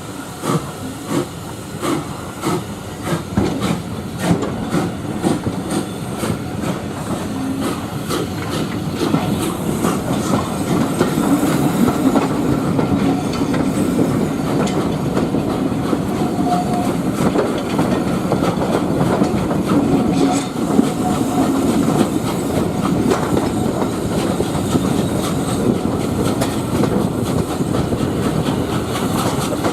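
Train hauled by an LSWR T9 steam locomotive running along the line, heard from on board: wheels clattering over the rail joints, the sound growing louder over the first ten seconds or so as the train gathers speed, then running on steadily.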